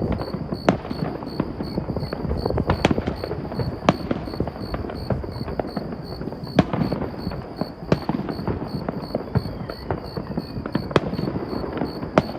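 Fireworks going off all around: a continuous crackle and rumble of many distant bursts, punctuated every second or two by sharp, louder bangs.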